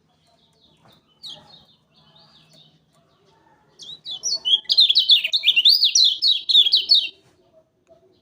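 Kecial kuning songbird singing: soft scattered chirps at first, then from about four seconds in a loud, fast run of sharp up-and-down notes, about four a second, lasting about three seconds and stopping abruptly.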